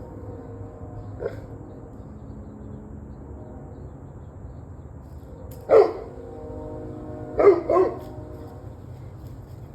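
A dog barking: one faint bark about a second in, a loud single bark midway, then two quick barks, over a steady background hum.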